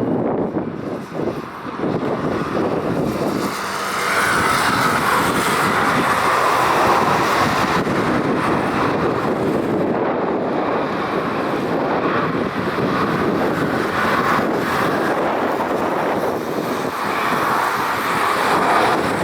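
Boeing 737-800 jet engines running as the airliner lands on a wet runway: a steady, noisy roar that grows louder about four seconds in, with wind buffeting the microphone.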